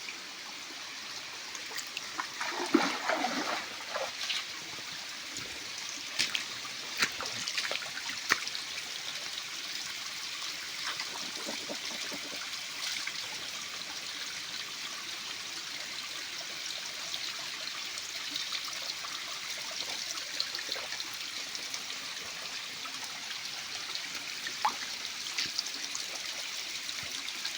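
Waterfall water splashing and rushing steadily, with a few sharper splashes in the first eight seconds or so.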